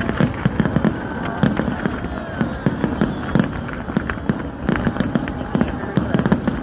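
Fireworks going off in quick succession: a dense, irregular run of sharp bangs and crackles, several a second, with voices faintly underneath.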